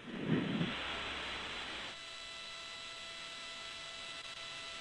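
Faint steady hiss and electrical hum of an open radio commentary feed, the hiss a little louder for the first two seconds and then settling.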